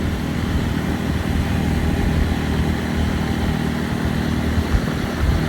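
Motorcycle engine running at speed under acceleration, with wind rushing over the microphone.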